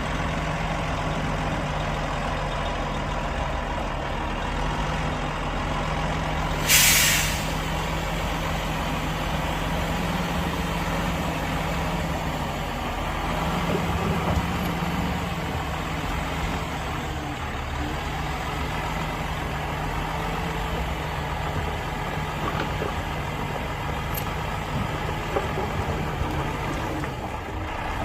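Heavy diesel dump truck engine running steadily, with one short loud hiss of air brakes releasing about seven seconds in.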